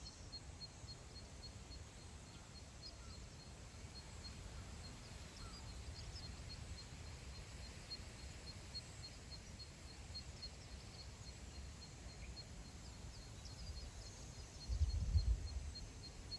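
Wind blowing across open grassland, rumbling on the microphone, with a stronger gust near the end. A faint high chirp repeats evenly about three times a second throughout, with a few short wild-bird calls scattered over it.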